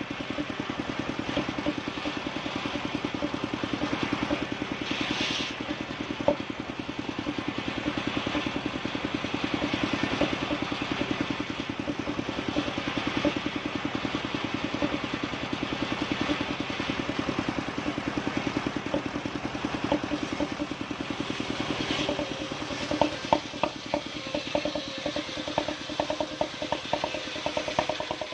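Engine-driven wood-sawing machine running steadily with a fast, even engine beat. Near the end come a series of sharp knocks and clatter.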